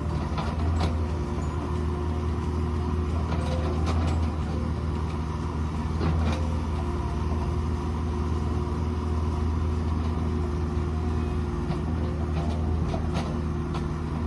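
Mini excavator engine running steadily at work, with a few sharp knocks scattered through.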